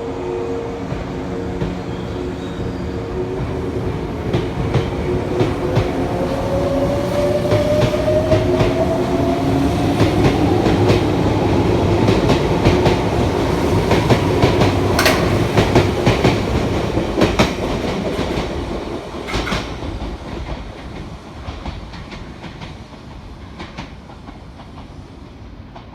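Izukyu 2100 series electric train pulling away and gathering speed. Its motor whine rises steadily in pitch while the wheels click over the rail joints, the sound growing louder and then fading as the train moves off.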